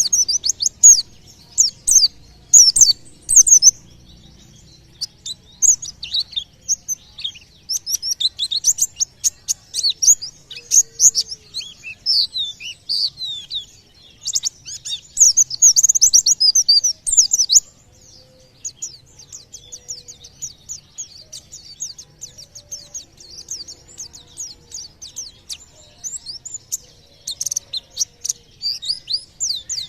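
White-eye (pleci) singing a fast 'tembakan' song of rapid, high, thin chirps and trills, a song that bird keepers use to provoke other songbirds into singing. It comes in loud dense bursts at first, then turns to a softer, steady stream of quick chirps over the last third.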